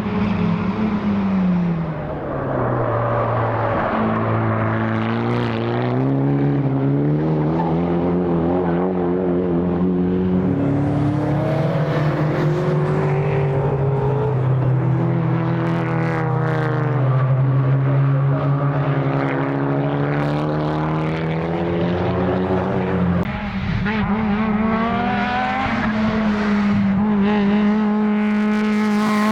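Time attack race car engine running hard on a circuit, its note repeatedly falling and climbing as the car comes off and back onto the throttle and works through the gears. About 23 seconds in the sound breaks off sharply and a higher, steadier engine note takes over.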